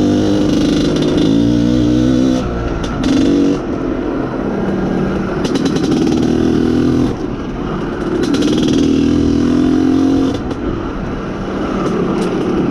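IZh Planeta Sport's single-cylinder two-stroke engine pulling a ridden motorcycle. The throttle opens and closes in repeated surges, about four in the stretch, with the revs dropping between them.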